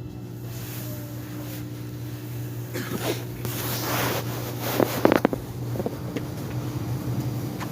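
Inside a Korean Line 1 express subway car: a steady low electrical hum, a rush of hiss about three seconds in, and a quick cluster of sharp knocks or clatters about five seconds in, the loudest moment.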